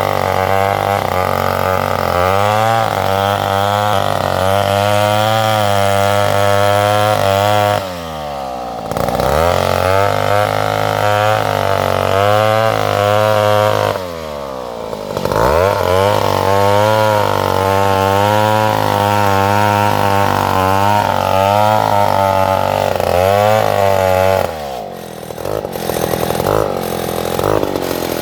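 Chainsaw engine running at high revs while cutting salam wood, its pitch wavering as the chain bites. Twice the revs drop and climb back up, and near the end the saw falls back to idle.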